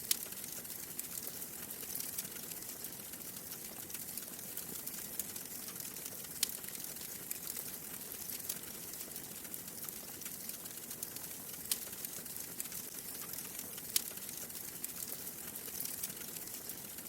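Wood fire burning in a fireplace: a steady soft hiss with frequent small crackles and a few sharper pops.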